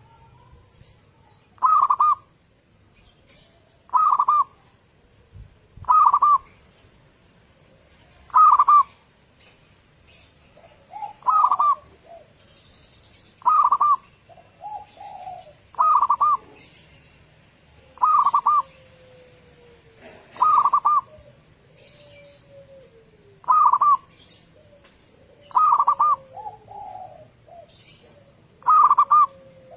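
Zebra dove (perkutut) cooing: a short, loud phrase repeated about every two to two and a half seconds. Softer, lower calls and falling notes sit between the phrases, and faint chirps of small birds sound behind them.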